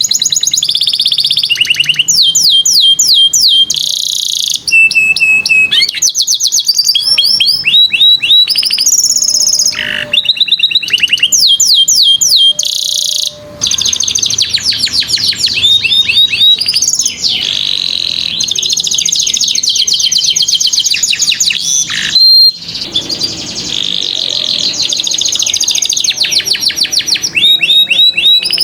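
Domestic canary singing continuously: fast rolling trills and repeated rising and falling chirps, one phrase running straight into the next with only short breaks.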